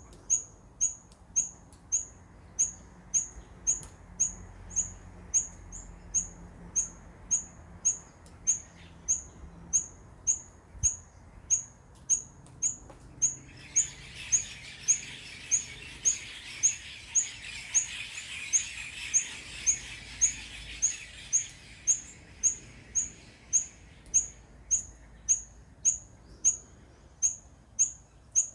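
Rufous fantail giving a sharp, high chip call over and over, about two to three a second at an even pace. A steady hiss rises under the calls in the middle of the stretch for about ten seconds, then fades.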